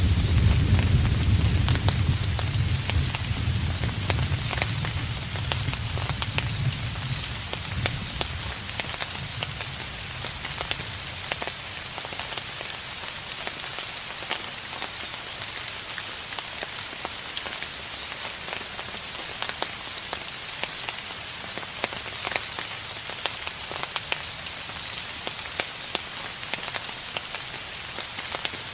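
Steady rain with sharp ticks of single drops hitting a surface, while the low rumble of distant thunder dies away over the first several seconds.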